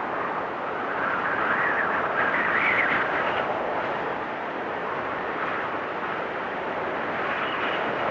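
Blizzard wind blowing steadily in a rushing hiss, with a gust that swells and rises in pitch to a whistle about two seconds in, then dies back down.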